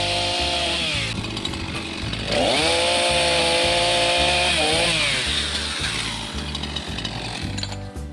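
Gas chainsaw revved up and held at high speed twice, for about a second and then about two and a half seconds, dropping back after each. It falls silent near the end. A steady music beat runs underneath.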